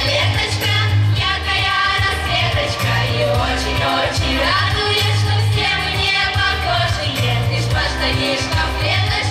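A song being sung to an amplified musical accompaniment, with a strong bass line under the voice.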